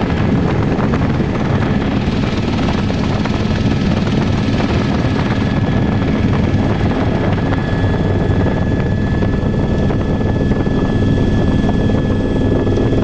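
Helicopter running steadily: a loud, even rotor and engine rumble with a steady high whine over it.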